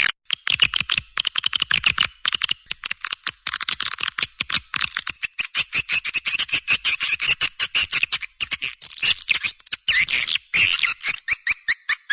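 Swiftlets twittering in a dense, rapid run of high clicking chirps, with a short break about ten seconds in. It is a swiftlet call track of the kind played to lure swiftlets into a nest house.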